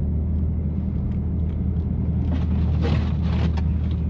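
BMW F80 M3's twin-turbo straight-six engine and open-valved exhaust giving a steady low drone at a gentle, even cruise, with tyre noise on a snowy road. A brief rise of hiss comes a little after halfway.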